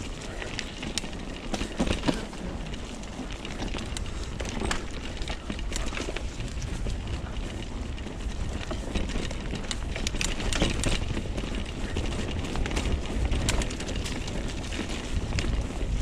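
Mountain bike riding fast down a dirt trail: a steady rush of tyres on dirt and wind on the microphone, with many scattered clicks and rattles from the bike over bumps.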